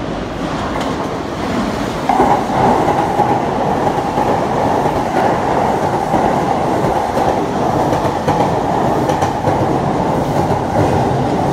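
Yokosuka Line E217-series electric train pulling into the platform, its wheels rumbling and clacking over the rails. A steady higher tone joins about two seconds in as the cars come alongside.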